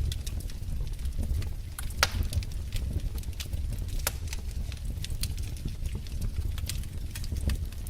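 Wood fire crackling: a steady low rumble of burning logs with irregular snaps and pops, one louder pop about two seconds in.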